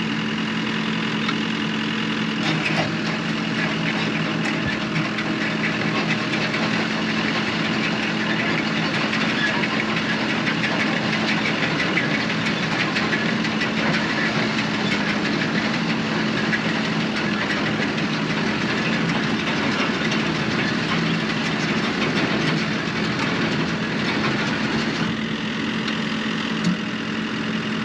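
Sod vacuum running steadily behind a tractor: a loud, even rush of air from the vacuum's fan with a steady engine hum underneath. The sound shifts slightly near the end.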